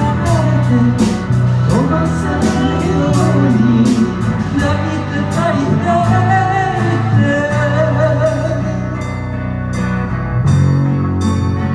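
Live band playing a slow pop ballad: drums with a regularly ticking hi-hat, bass and electric guitar, with a wavering melody line over them.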